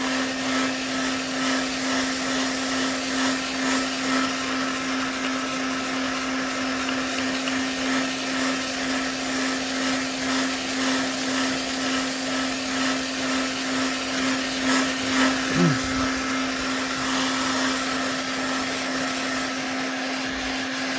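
Heat gun blowing steadily with a constant hum, drying freshly laid fiberglass to speed its curing.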